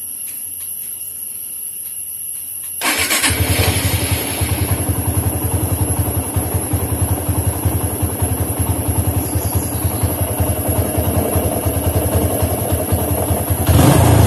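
TVS Apache RTR 160's single-cylinder four-stroke engine starting about three seconds in and then idling with a steady, even pulse, running after its carburetor has been cleaned. It gets louder near the end.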